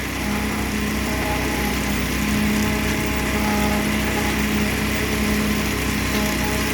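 Construction machinery at a concrete pour running steadily: a constant engine drone with an unchanging hum.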